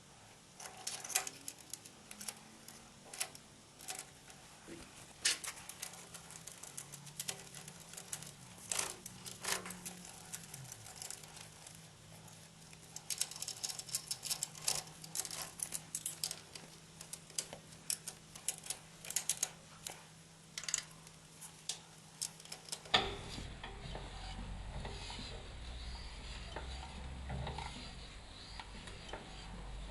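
Irregular light metallic clinks and taps of tools and engine parts being handled. About 23 seconds in the sound changes abruptly to a low steady hum with softer clicks.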